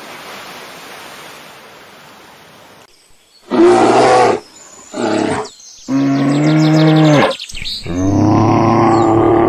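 Loud, low calls of a large animal after a few seconds of faint hiss: two or three short calls, then a longer call, then a drawn-out call beginning near the end.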